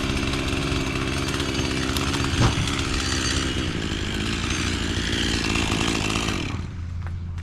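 Chainsaw running hard, likely cutting wood: a steady engine note under a loud rushing hiss. A sharp knock comes about two and a half seconds in. The hiss stops about six and a half seconds in while a low engine note keeps running.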